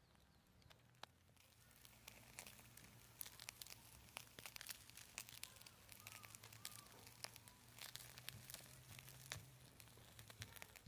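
Faint crackling of a campfire: many small, irregular sharp pops that grow denser about two seconds in.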